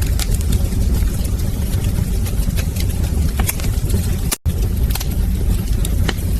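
Wood fire in a fireplace crackling: scattered sharp pops and snaps over a steady low rumble of the flames. The sound cuts out completely for a split second about four seconds in.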